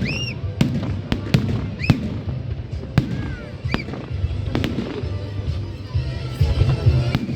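Fireworks going off: a string of sharp bangs, several of them followed by brief whistling tones that rise and fall.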